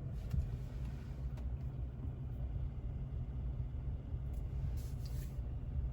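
Steady low rumble of a 2023 Toyota Tacoma SR5 V6, heard from inside the cabin.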